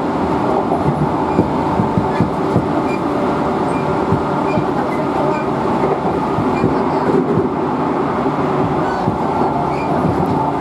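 Electric commuter train running on the rails: a steady rumble of running noise with faint scattered clicks.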